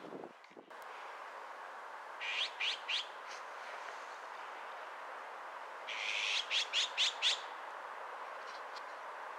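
Songbird calling in short, sharp runs: three quick chirps about two seconds in, then a longer run of five or six about six seconds in, over a steady background hiss.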